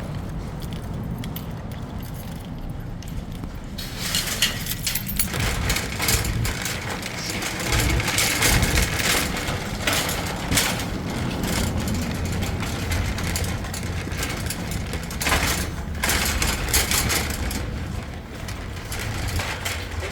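Metal shopping cart rattling and clattering as it is pushed along, over a steady low rumble, with the rattling getting louder about four seconds in.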